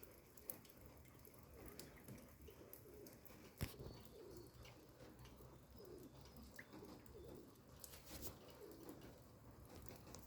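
Faint, low, repeated bird calls, each short and curving in pitch, recurring every second or so. A single sharp click sounds about three and a half seconds in.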